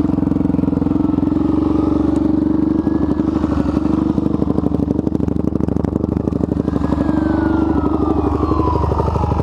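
Suzuki DRZ462's single-cylinder four-stroke engine running steadily through an MRD aftermarket exhaust, with an even, rapid pulse and no revving. About seven seconds in, a siren begins to sound, its wail falling in pitch.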